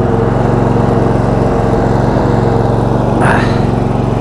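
22 hp V-twin Briggs & Stratton engine of a Roper lawn tractor running steadily under way.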